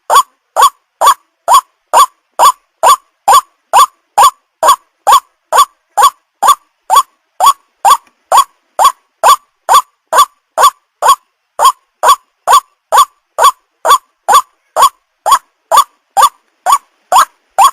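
White-breasted waterhen (burung ruak-ruak) calling: short, identical notes repeated at an even pace of about two a second, each dropping slightly in pitch, with clean silence between them.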